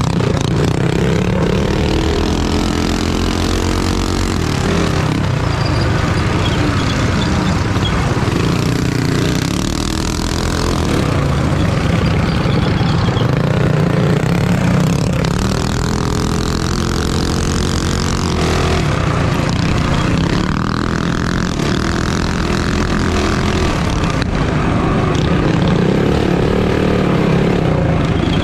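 Minibike engine running hard under race throttle, its pitch rising and falling repeatedly as the rider gets on and off the gas.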